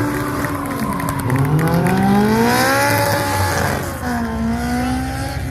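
Datsun 1200 rally car with a swapped-in Honda S2000 F20C four-cylinder engine, loud and high-revving. The revs fall in the first second, then climb steadily for about two seconds, dip sharply near four seconds in, and pull up again.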